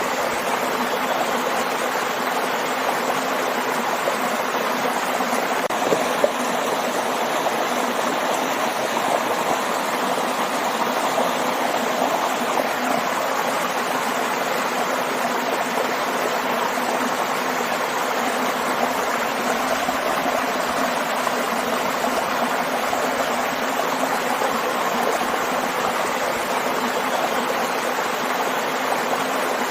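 Waterfall and stream: steady rushing and splashing of flowing water, with no change throughout.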